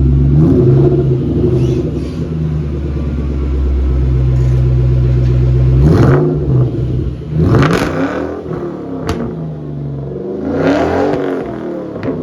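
2004 Ford SVT Cobra's supercharged 4.6-litre V8 with a Whipple supercharger and Borla exhaust, blipped several times, each rev rising and falling back to a steady idle; the biggest revs come about halfway through and near the end.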